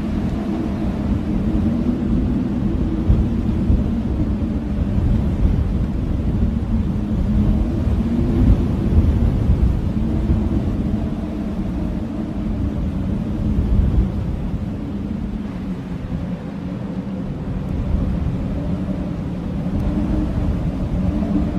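Blizzard wind howling in gusts: a deep, steady rush of wind with wavering low moaning tones. It eases somewhat after the middle and builds again near the end.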